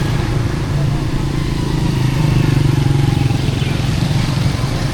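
A motor vehicle engine running steadily close by, getting a little louder around the middle, over busy street noise.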